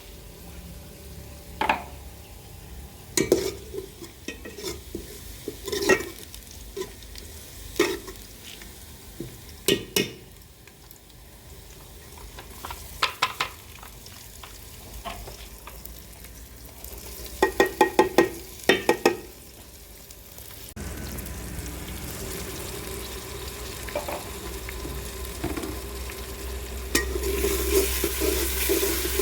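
A spoon stirring and scraping chicken as it fries in a karahi, with sharp clinks of metal on the pan and a quick run of knocks about two-thirds through. Near the end the frying sizzle grows steadier and louder.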